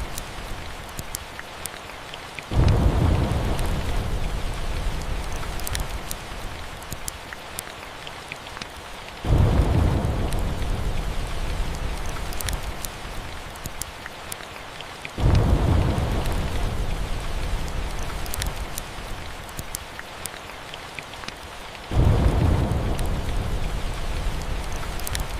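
Steady rain with light crackling from a fireplace, broken by four rolls of thunder that each start suddenly and fade slowly, coming about every six to seven seconds.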